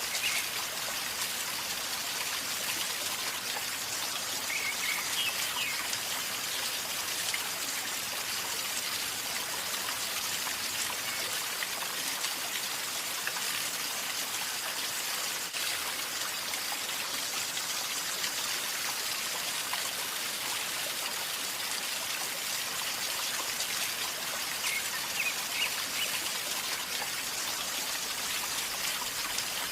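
River water flowing calmly with a steady gurgling rush.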